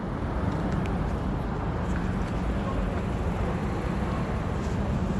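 Steady outdoor background noise: a low rumble and hiss with a faint, even hum, and no distinct events.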